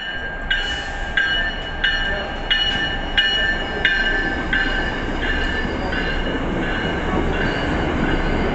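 Commuter rail train locomotive bell ringing steadily, about one and a half strikes a second and growing fainter toward the end, over the rumble of the train idling or moving at the platform.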